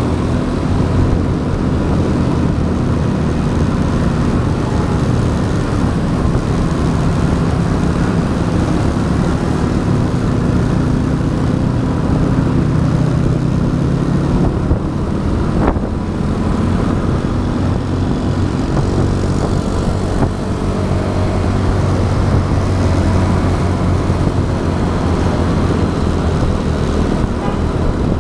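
Motorbike engine running at road speed with wind and road noise, heard from the rider's action camera; the engine note drops about halfway through and then picks up again, with a brief click in the middle.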